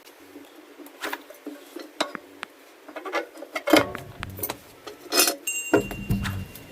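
Metal tools and car parts clinking and knocking as they are handled during a brake job, a scatter of sharp taps with two short low rumbling stretches about four and six seconds in.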